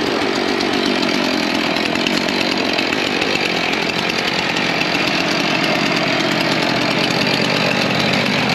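Chainsaw running steadily under load, cutting a knot off a log.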